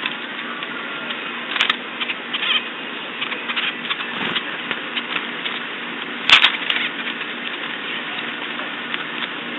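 Steady hiss from a Ring doorbell-style camera microphone, with scattered small taps and clicks and a louder knock about six seconds in.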